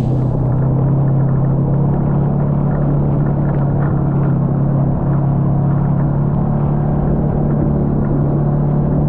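Kawasaki side-by-side UTV engine running at a steady speed: a low, even drone with a constant pitch.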